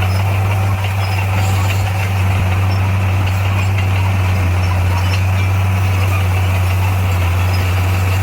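Bulldozer's diesel engine running steadily with an even low drone.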